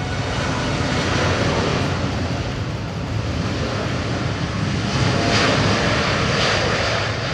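Jet engines of a Boeing 787-8 Dreamliner at takeoff power, a loud steady rumble that swells about a second in and again near the end as the airliner passes.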